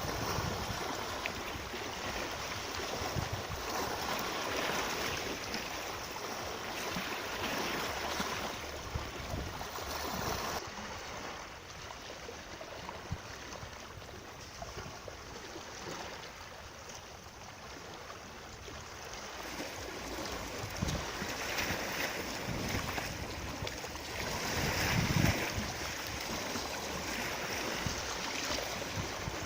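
Moving water: a steady rushing and washing that swells and eases every few seconds, louder around the middle of the last third.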